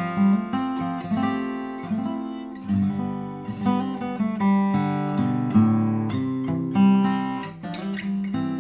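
Pernambuco-and-spruce OM-size acoustic guitar being played: picked notes and chords ringing out one after another.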